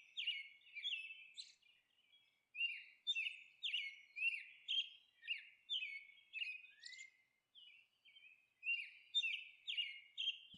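Small birds chirping: quick runs of short, high notes that slide downward, with a pause or two between the runs.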